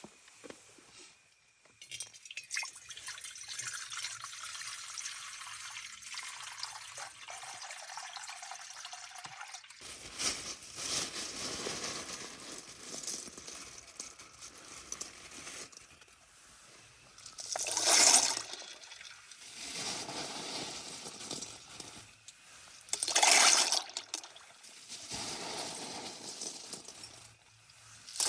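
Water pouring in a steady stream for several seconds, then water running and splashing, with three louder surges of splashing later on.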